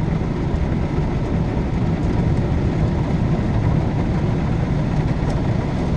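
Drive-through machine car wash working on the car, heard from inside the cabin as a steady rushing noise.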